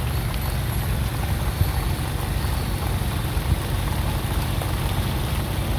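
Wind buffeting the microphone outdoors, a steady low rumble that fluctuates unevenly.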